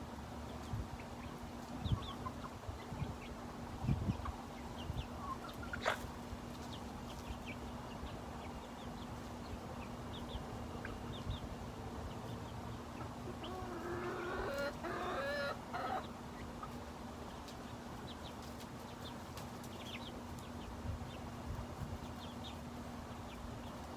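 Chickens clucking, with one longer drawn-out call from a bird about fourteen seconds in and a few sharp knocks in the first several seconds. A steady low hum runs underneath.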